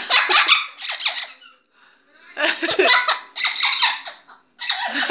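Amazon parrot mimicking human laughter in three spells of rapid, choppy giggling.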